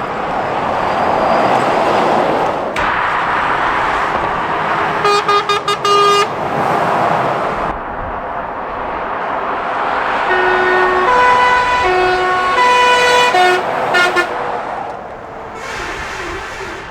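Lorries and traffic passing at speed with steady tyre and engine noise. A horn gives a quick run of short toots about five seconds in. From about ten seconds in, a horn sounds a string of notes of changing pitch, like a short tune.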